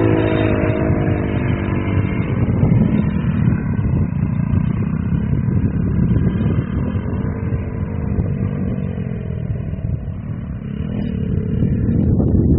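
Off-road vehicle engine running on a dirt motocross track: the engine note drops as it eases off right at the start, then carries on as a rough low rumble that picks up again near the end.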